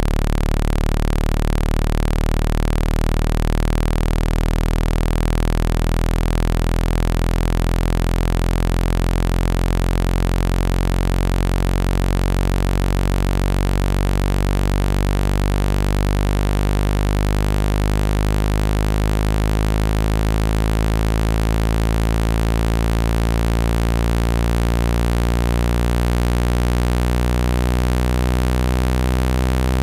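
Synthesized low-pitched tone for ejecting water from a phone speaker, playing steadily with many buzzy overtones that slowly shift in texture.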